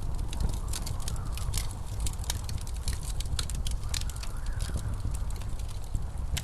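Wood fire crackling with many sharp pops and snaps, over a low, steady rumble of blizzard wind. A faint wind howl rises and falls about a second in, and again around four to five seconds.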